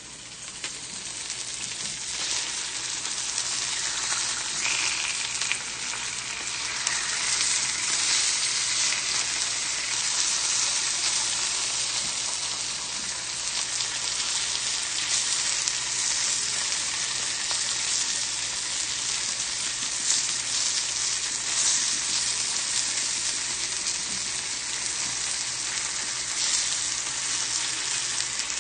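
Chicken breasts searing in a hot pan, sizzling steadily; the sizzle grows louder over the first few seconds and then holds.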